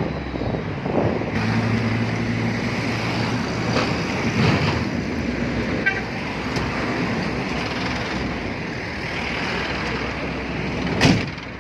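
Road traffic: vehicle engines running steadily, with a single sharp knock near the end.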